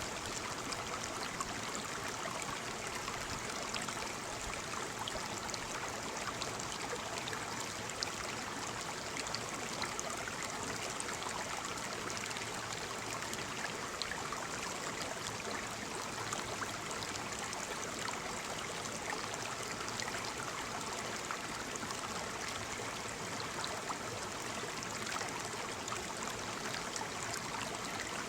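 Waterfall: water falling and splashing in a steady rush, with small splashes scattered through it.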